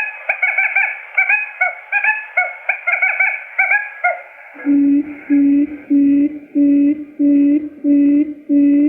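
Quail lure calls: quick, high, upward-flicking chirps, three or four a second. About four and a half seconds in, they give way to a steady series of low hooting notes, about two a second.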